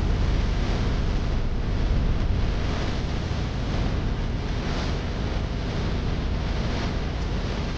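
Steady, loud rushing noise of wind buffeting the microphone and water aboard a tour boat on a river ride.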